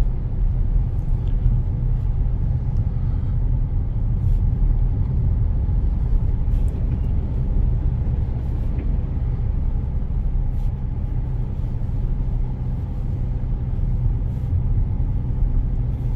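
Car cabin road noise while driving on a snowy road: a steady low rumble of engine and tyres.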